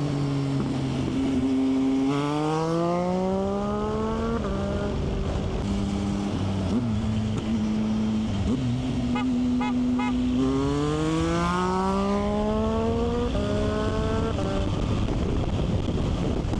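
Motorcycle engine under way, climbing in pitch as it accelerates and dropping sharply at an upshift about four seconds in. It then runs steady for a while and climbs again through two quick upshifts near the end.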